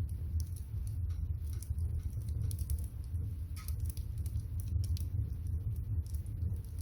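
Wood fire heating a pot of water: scattered sharp crackles and pops of burning firewood over a steady low rumble.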